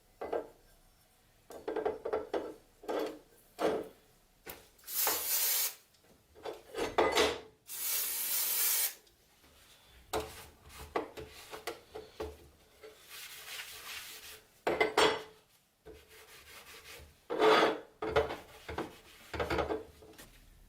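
Abrasive rubbing on a padlock part: a run of irregular scraping strokes, some short and some about a second long, with brief pauses between them.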